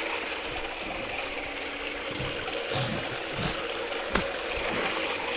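Water pouring and running through a high banker's tub and sluice, over a steady hum from the pump feeding it, with a few soft knocks.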